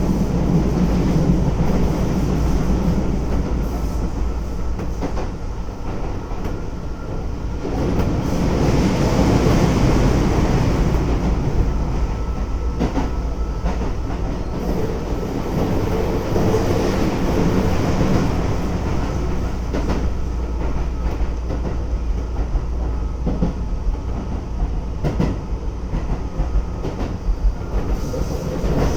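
Keisei 3400 series electric train running at speed, heard inside the passenger car: a steady rumble of wheels and motors, with irregular clicks of the wheels over rail joints.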